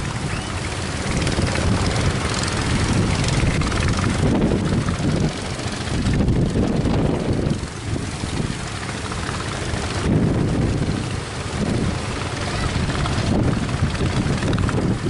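Strong wind buffeting the microphone in gusts, over the steady drone of boat engines running.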